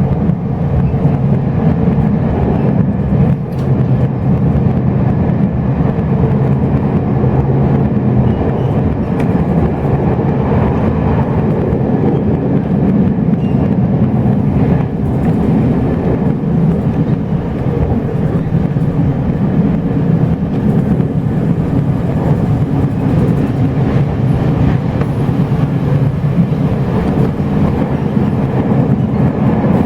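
Steady rumble of a Chu-Kuang Express passenger coach running along the line, heard from inside the coach: wheels on the rails and the carriage's running noise, deep and continuous.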